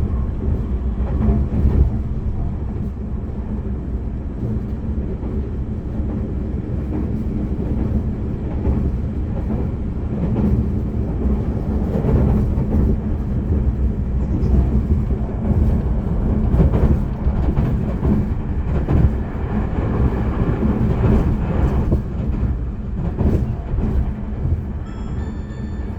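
Tobu limited express train running at speed, heard from inside the carriage: a steady low rumble of wheels on rails with scattered clicks.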